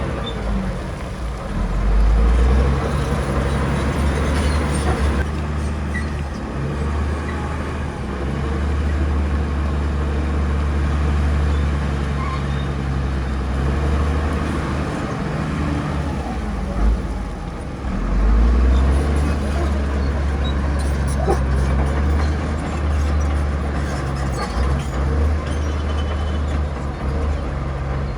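Heavy diesel earthmoving machinery running with a low, steady drone; the engine note surges under load twice, and there is a single knock partway through.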